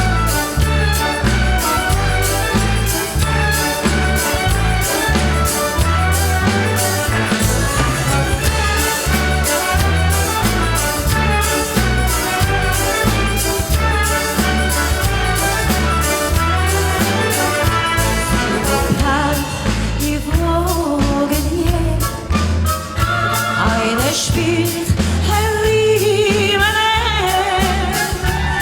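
Symphony orchestra playing a song with a steady, pulsing bass beat; a singing voice comes in near the end.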